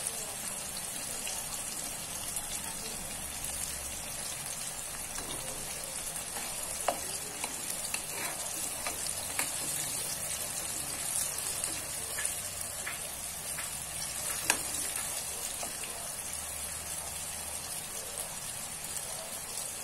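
Sliced long eggplant sizzling steadily as it fries in hot oil in a wok. A spatula stirs the slices and strikes the pan with several sharp clicks, the loudest about two-thirds of the way through.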